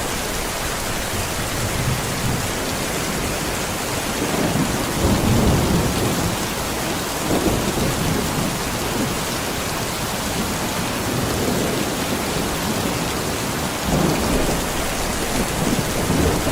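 Heavy rain falling steadily, with low rumbles swelling and fading several times.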